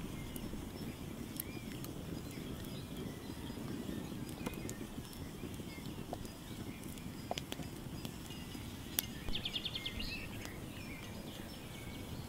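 Outdoor ambience: a steady low rumble with small birds chirping now and then, including a quick run of about eight notes about three-quarters of the way through. A few soft clicks are scattered through it.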